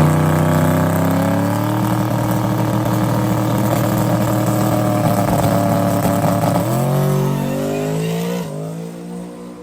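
Twin-turbo NASCAR truck engine revving up and held at a steady high rpm, as against a two-step launch limiter while building boost for a spool test. About seven seconds in it rises a step higher, then falls and dies away near the end.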